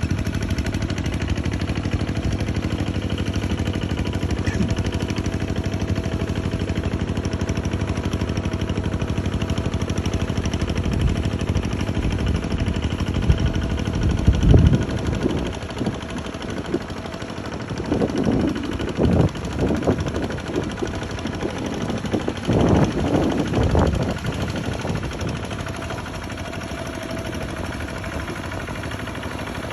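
Diesel engine running with a rapid, even clatter, then three louder, irregular spells about halfway through and again two thirds in.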